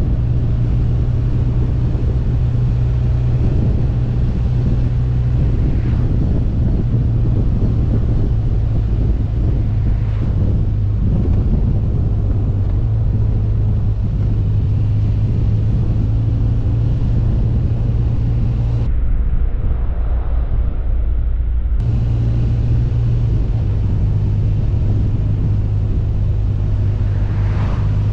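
BMW R1200GS Adventure's flat-twin engine running at a steady cruise under wind noise. The steady engine hum drops away for a few seconds about two-thirds of the way through, then returns.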